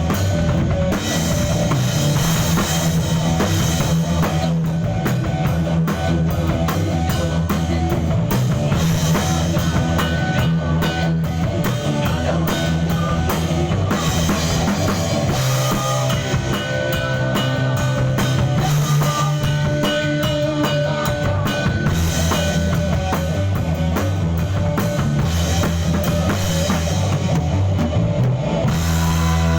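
Rock band playing in a rehearsal studio: a drum kit with bass drum and snare driving steadily under sustained bass notes that change every few seconds.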